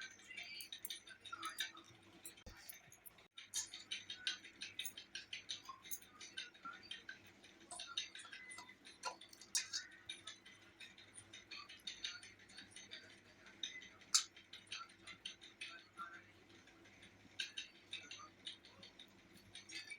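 Faint eating sounds: a person chewing and handling food, heard as many small irregular clicks and smacks.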